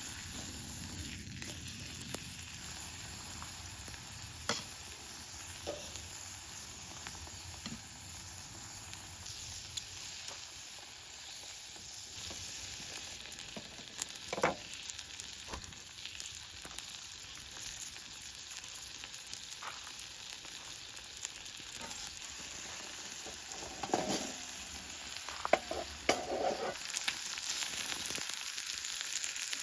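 Food frying over a fire, a steady high sizzle, with a few light knocks about halfway through and again near the end.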